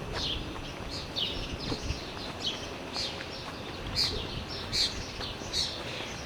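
Small songbirds chirping: a run of short, high, down-slurred chirps about twice a second, a few louder ones near the end.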